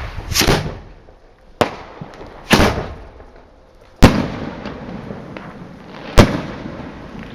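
Fireworks going off in a series of about five bangs. A sharp crack and two rougher, longer bursts come in the first few seconds, then the two loudest, sharpest bangs about two seconds apart, each followed by a long echoing rumble.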